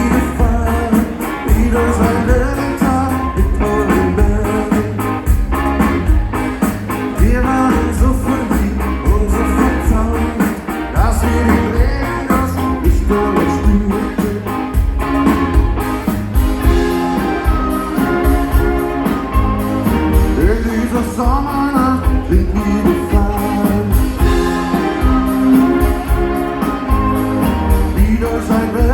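A rock band playing live through a PA: sung vocals over a full band with a steady drum beat.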